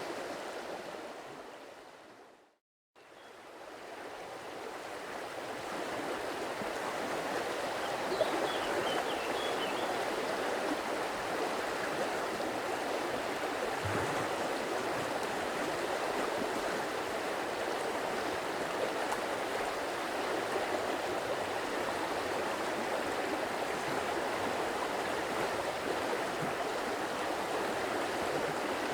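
Stream water flowing and splashing in a steady rush. It fades out to silence about two to three seconds in, then swells back over the next few seconds and holds steady: the seam where the recording loops.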